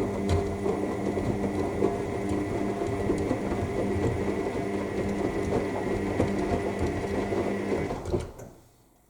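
AEG L7FE7461BI washing machine drum turning during the main wash: a steady motor hum with a thin whine over it, and wet laundry tumbling and sloshing in the drum. About eight seconds in, the motor stops and the drum comes to rest for its pause between turns.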